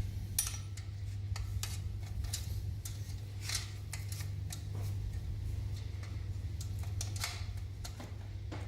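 Irregular light metallic clicks and clinks of hand tools and small engine parts being handled, over a steady low hum.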